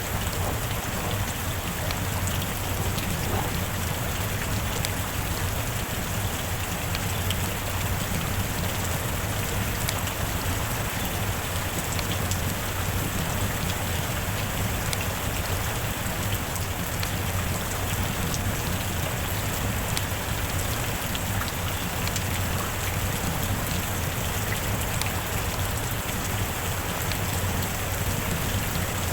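Rain falling steadily: an even wash of rain with a dense patter of individual drops.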